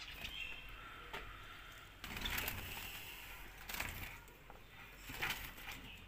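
Small cage birds chirping in short scattered calls, with rustling and a few light knocks now and then.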